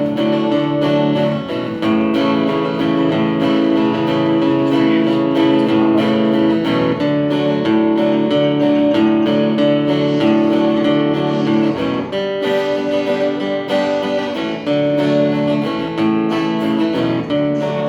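Solo guitar strummed in a steady rhythm, an instrumental break between sung verses, the chords changing every few seconds.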